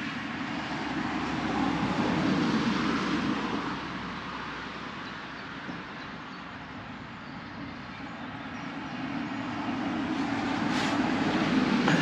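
Vehicles passing at a distance, a steady rushing noise that swells and fades twice.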